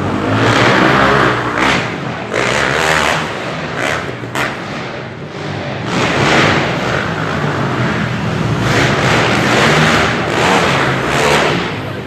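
Motocross dirt bike engines revving and easing off as the bikes race, the sound swelling and fading.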